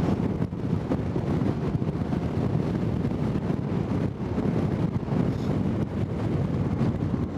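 Wind rushing and buffeting over a helmet camera's microphone while riding a KTM 990 Adventure motorcycle, with the bike's engine and road noise underneath as a steady rumble.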